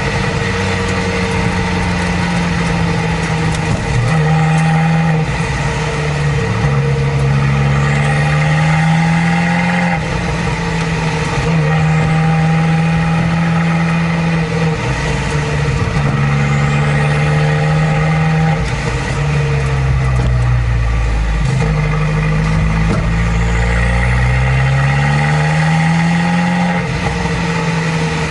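Abarth 595 Competizione's turbocharged 1.4-litre four-cylinder with a Record Monza exhaust, driving and pulling through the gears. The engine note climbs, then drops back at each shift, several times over.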